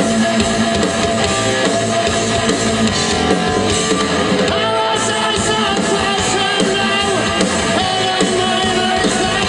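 Rock band playing live, a full mix led by electric guitar.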